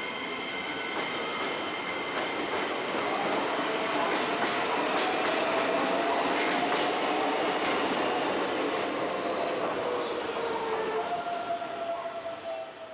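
Keikyu electric train running through Shinagawa Station: steady wheel-and-rail noise with clicks over the rail joints and a whine that slides in pitch. It grows louder toward the middle and fades away near the end.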